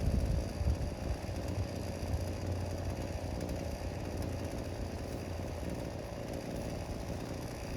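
Small two-stroke brush cutter engine running steadily at low speed.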